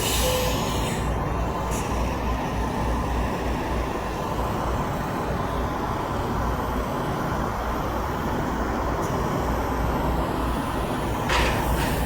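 Steady low rumble of heavy road traffic, semi trucks running or going by, with no horn sounding. Near the end come a few short hissing bursts.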